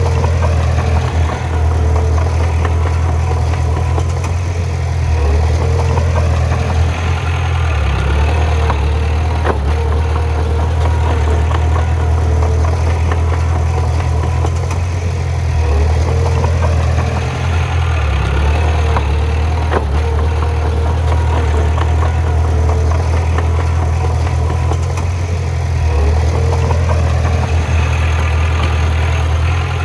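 Heavy bulldozer diesel engine running steadily, with a deep low drone and a few sharp knocks.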